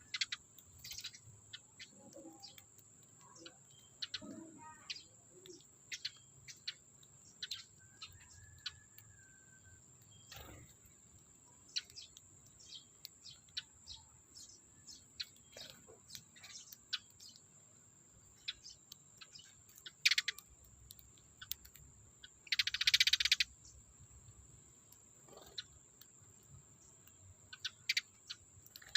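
Eurasian tree sparrows chirping in short, scattered calls, over a thin steady high-pitched tone, with a louder burst of about a second near the end.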